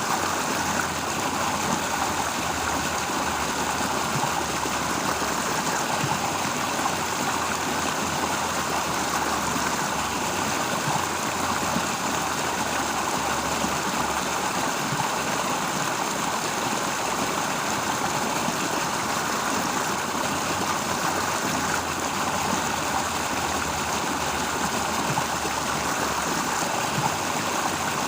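Stream water flowing steadily, an even rushing hiss with no breaks or changes.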